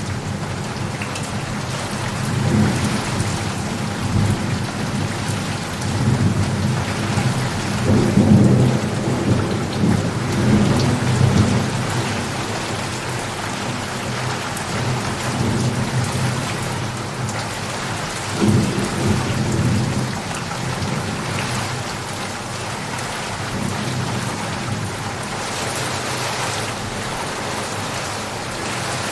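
Steady heavy rain falling, with low rolls of thunder rumbling under it, the longest and loudest from about 6 to 11 seconds in and another at about 18 seconds.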